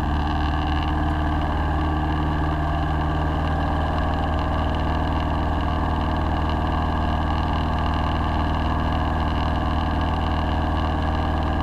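A light single-engine plane's piston engine and propeller, heard from inside the cabin, running steadily in an even drone during a go-around from an aborted landing.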